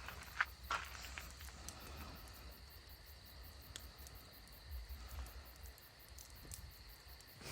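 Crickets trilling faintly as one steady high tone, with a few soft clicks in the first second.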